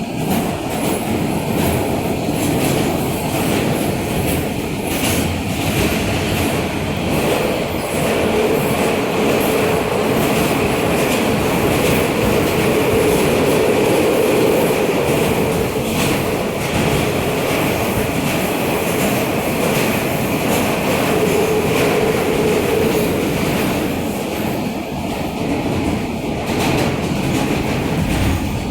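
An R160A subway car running between stations, heard from inside: a steady rumble of wheels on rail with running noise. A whining tone swells through the middle and again briefly near the end.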